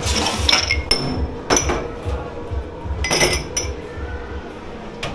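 Dishes and glassware clinking together as they are handled in a dish pit, in three bursts of ringing clinks: one during the first second, one about a second and a half in, and one around three seconds in.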